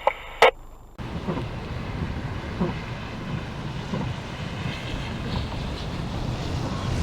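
Two short clicks from a police radio scanner, then from about a second in, strong wind buffeting the microphone with a steady low rumble.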